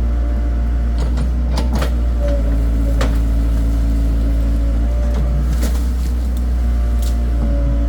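Engine running steadily at a constant speed with a deep, unchanging low drone, and a few sharp clicks or knocks over it.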